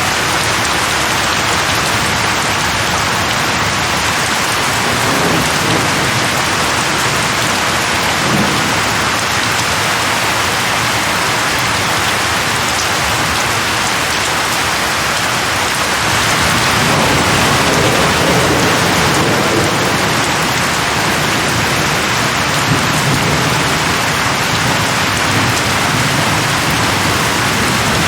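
Steady heavy rain, with low rumbles of thunder that swell and fade a few times: once about a fifth of the way in and again through the second half.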